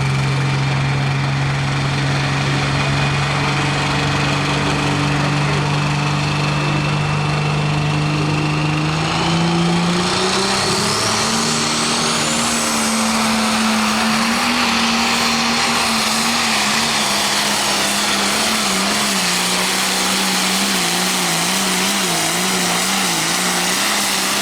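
Turbocharged diesel engine of an outlaw pro stock pulling tractor running at a steady speed, then revving up about nine seconds in. A high turbo whine climbs sharply as the revs rise, and the engine note then wavers up and down while it stays loud.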